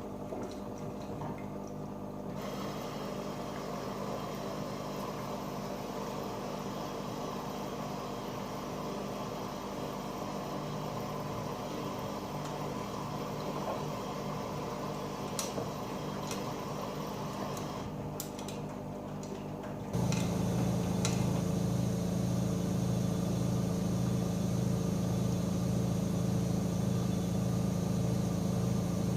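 AEG Öko-Lavamat 88840 washing machine running with water sloshing and dripping inside. About two-thirds of the way through, a louder steady motor hum starts abruptly.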